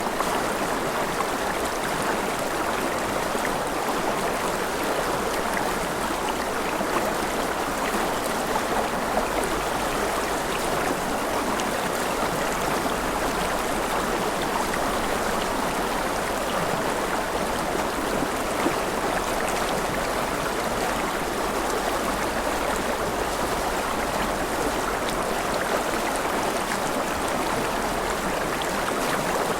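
Mountain river flowing over rapids, a steady rushing and splashing of water with no change in level.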